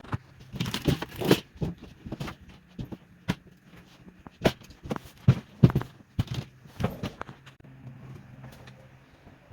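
A string of irregular sharp knocks and cracks with some crackling between them, thinning out over the last couple of seconds.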